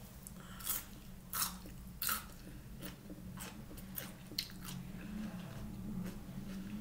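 A person biting and chewing a stick of celery: three crisp crunches about two-thirds of a second apart, then softer chewing.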